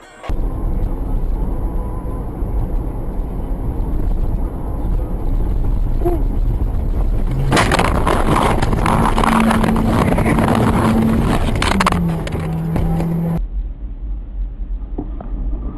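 Dashcam recording of a car on the road: steady engine and road noise. About halfway through, a louder, harsh stretch of noise with a held low tone starts, steps down in pitch and breaks off suddenly. Quieter road noise follows, with a sharp click near the end.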